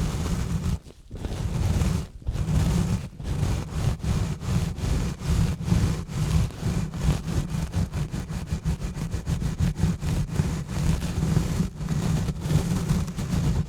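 Exfoliation gloves scratching and rubbing directly on a bare microphone: quick repeated scrubbing strokes with a heavy low rumble. There are a couple of short breaks in the first few seconds, then a faster, even rhythm.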